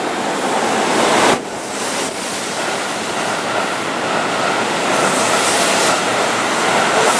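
Keihan 3000-series electric train running past alongside the platform, a loud steady rush of wheels on rail and moving air. The noise drops abruptly about a second and a half in, and a faint steady whine runs under it from about three seconds.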